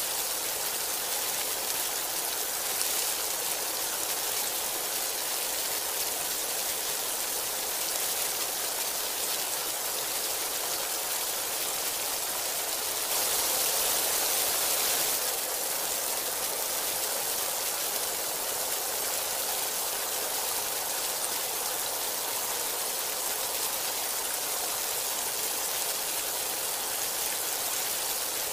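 Heavy rain falling steadily, a dense even hiss that swells louder for a couple of seconds about halfway through.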